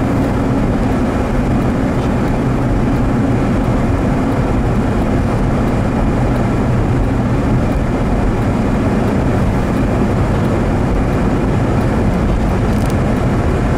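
Snowplow truck driving on a snowy road: a steady, loud drone of engine and road noise that holds without change.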